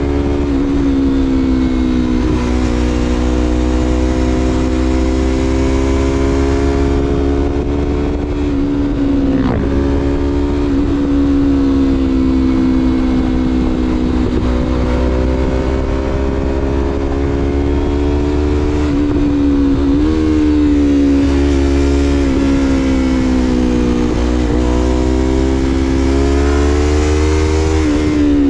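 2016 Yamaha MT-25's parallel-twin engine through a Shadux Viper Pro Race aftermarket exhaust, under way at a steady cruise. The engine note holds fairly even, dips briefly twice, about a third and two-thirds of the way through, and falls away near the end, over a constant rush of wind.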